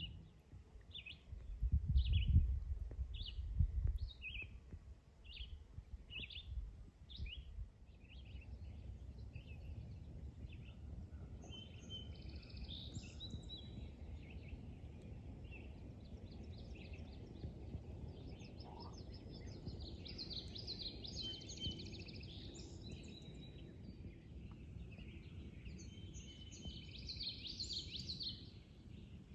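Wild birds singing: one bird repeats a short high chirp about twice a second, then longer bursts of more varied song come in several times, over a low outdoor rumble. A few loud, low thumps come about two to four seconds in.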